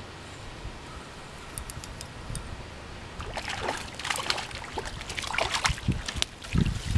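Stream water running steadily, then about three seconds of irregular splashing and sloshing starting about three seconds in.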